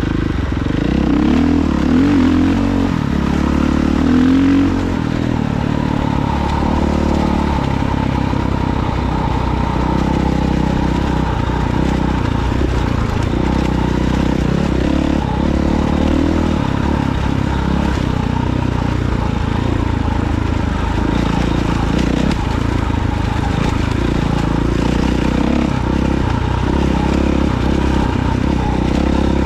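Off-road vehicle engine running while riding. The revs rise and fall over the first few seconds, then hold fairly steady.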